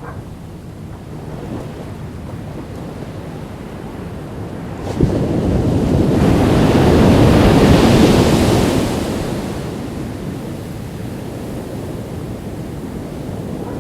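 Ocean waves washing on a beach. One wave breaks suddenly about five seconds in and swells loud for a few seconds before easing back to a steady wash.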